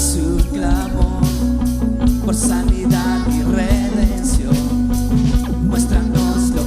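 Worship band playing an instrumental passage: guitar lines with bending notes over steady bass and a regular drum beat.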